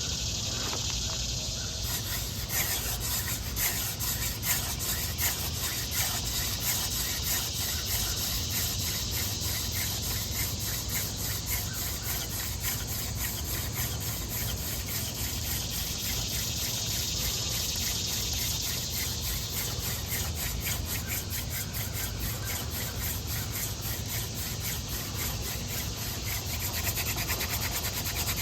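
Yucca hand-drill spindle spun back and forth between the palms in a tulip poplar fireboard: a rhythmic squeaking rub of wood on wood that starts about two seconds in. It is friction drilling, grinding out hot dust to form an ember.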